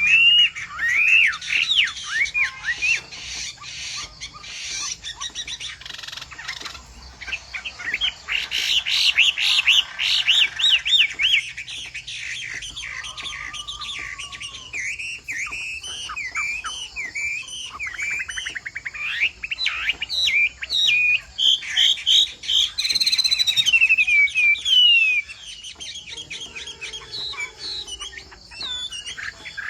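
Chinese hwamei singing a long, unbroken run of quick, varied whistled phrases, louder in the middle stretches and softer near the end.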